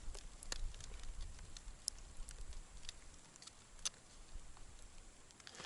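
Faint scattered clicks and taps, small handling noises as a tip-up is set over an ice-fishing hole. Low wind rumble on the microphone dies away about halfway through.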